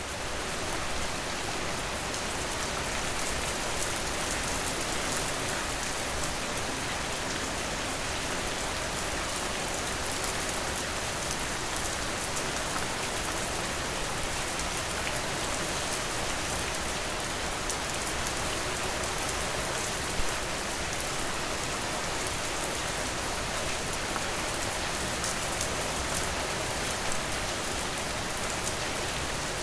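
Steady rain falling, a dense even patter that swells up over the first second, with a few louder single ticks, one about two-thirds of the way through and another near the end.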